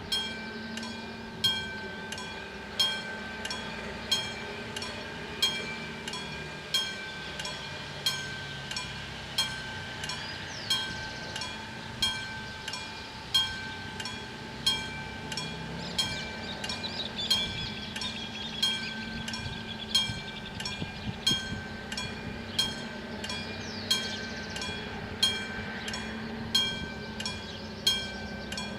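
A warning bell struck at a steady, even rhythm, a little more than once a second, each stroke ringing on, over the continuous low drone of a diesel locomotive engine.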